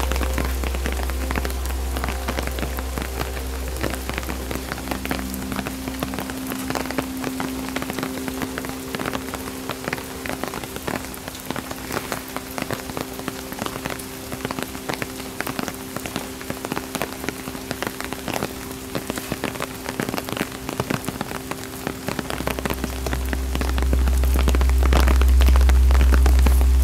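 Steady rain falling, with many separate drops pattering close by. A deep low rumble sits under it at the start, fades after a few seconds and swells back near the end.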